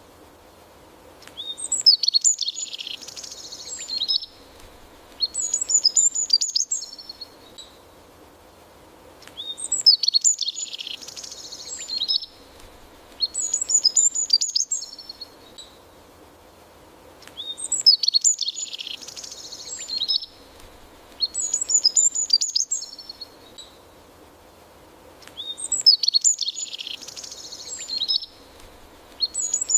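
A songbird singing: bright, twittering high song phrases come in pairs, each pair repeating about every eight seconds with near-quiet gaps between, over faint background ambience.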